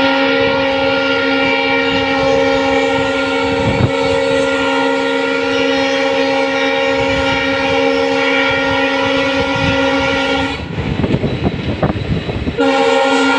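Train locomotive horn sounding one long steady blast lasting about ten seconds, then breaking off. The rumble and clatter of the train running on the track fills a two-second gap before the horn sounds again near the end.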